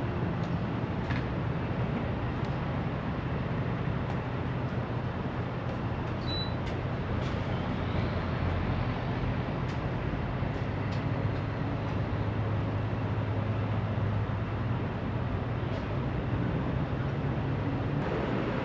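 Steady drone of a semi truck on the move: low engine hum under road noise, with a few faint clicks and rattles.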